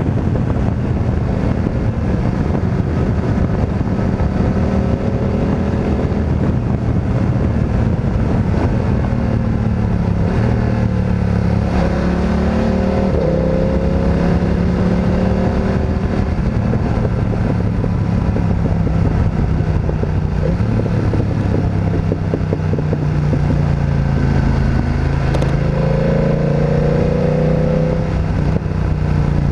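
Motorcycle engine under way, its note rising and falling again and again as it accelerates and shifts gears, over a steady low rumble.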